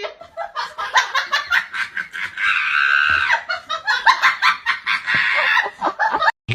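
A person laughing hard in quick bursts, breaking into held high-pitched squeals about two and a half seconds in and again near five seconds.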